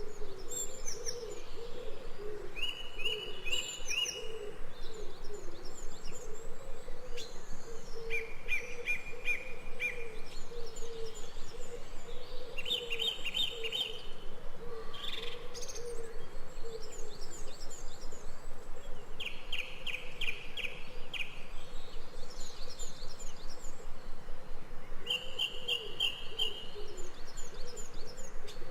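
Jungle bird chorus: a bird repeats a short, fast trill every few seconds among scattered higher chirps, over a steady low pulsing call.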